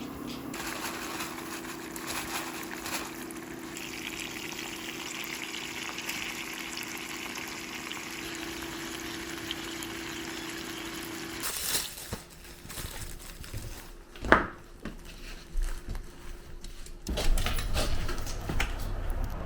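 Steady liquid sound, like water heating or being poured, over a low hum; it stops abruptly about eleven seconds in and gives way to scattered clicks and knocks, with one loud short sound near the middle of that stretch.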